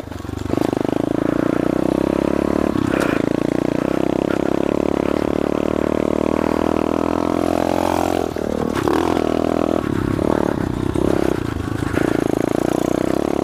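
SSR 125 pit bike's single-cylinder four-stroke engine running steadily under throttle while being ridden. The revs dip and pick up again a few times in the second half as the throttle is eased off and reopened.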